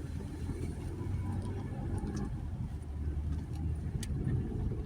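Jeep Gladiator pickup's engine running low and steady as it crawls slowly through a deep rut on a dirt trail, heard from inside the cab, with a few light clicks.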